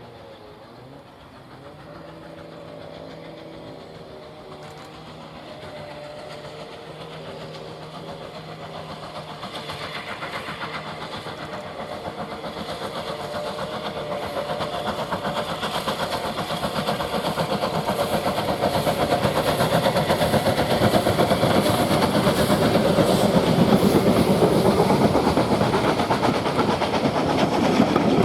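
Steam locomotive approaching with its exhaust beats coming quickly, the sound growing steadily louder.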